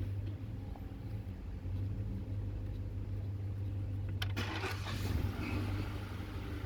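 Steady low engine-like hum, with a short clatter of metal parts about four seconds in as the intake manifold is handled for fitting.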